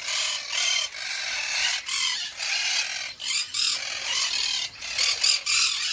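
Parrots chattering, a continuous harsh, high chatter with a few short whistled notes mixed in.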